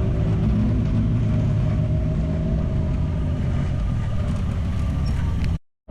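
Side-by-side UTV engine running steadily at low revs, stopping abruptly near the end.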